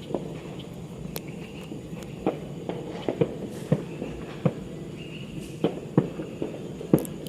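New Year fireworks and firecrackers going off, a dozen or so sharp cracks at irregular intervals over a steady low rumble.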